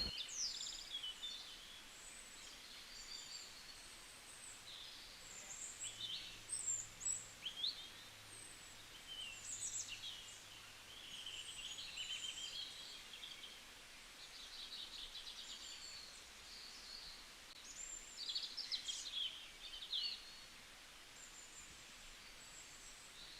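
Birds chirping and calling on and off, in short, high chirps and trills that come in scattered clusters with quiet gaps between them.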